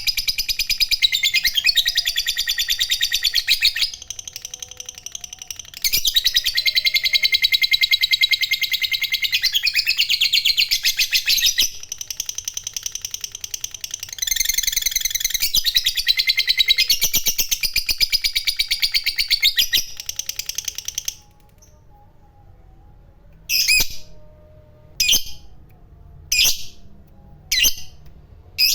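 Lovebird giving its long 'ngekek' chatter: a fast, high-pitched pulsed trill held for several seconds at a time with brief breaks. About seven seconds before the end it changes to single sharp chirps roughly every second and a half.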